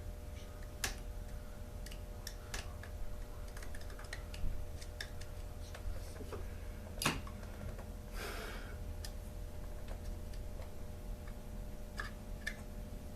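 Irregular light clicks and taps of small parts and hand tools being handled during bench work on a chainsaw, with a sharper knock about seven seconds in and a short scrape just after, over a steady low hum.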